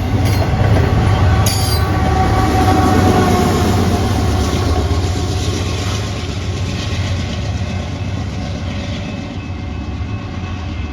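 A passing train: a steady rumble of wheels on rail that slowly grows quieter over the second half.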